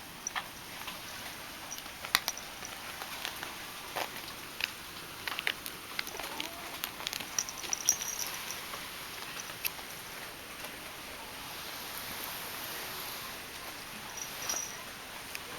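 Steady hiss of typhoon rain, with scattered light clicks and taps, more of them in the first half, and a couple of brief faint high squeaks.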